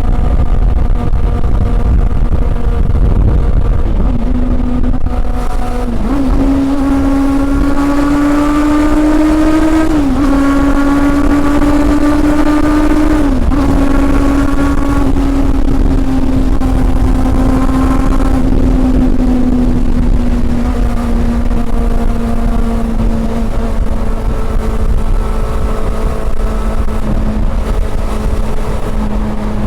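Honda CB400 Super Four's inline-four engine on the move, pulling up through the revs with two quick upshifts, about ten seconds in and again a few seconds later, then easing slowly down in revs. A heavy low wind rumble on the microphone runs under it.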